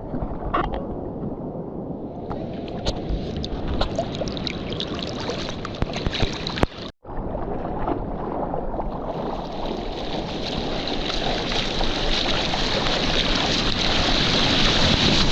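Sea water splashing and sloshing around a camera held in the surf, with scattered sharp splashes and wind on the microphone. After a brief dropout about seven seconds in, a rushing hiss of water builds steadily louder toward the end.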